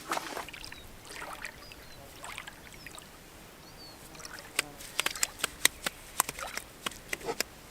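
A run of about a dozen sharp clicks and light knocks, starting near the middle, over a faint watery background with a few short high chirps earlier on.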